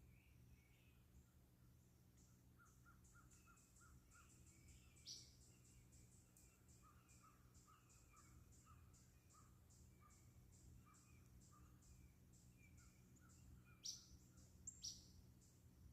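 Faint outdoor woodland sounds: rapid chirping and pulsing calls repeating steadily, with a short, sharp high call that falls in pitch about five seconds in and two more near the end.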